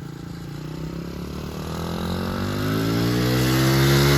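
Small motorcycle engine running and revving up: its pitch rises and it grows steadily louder, loudest near the end.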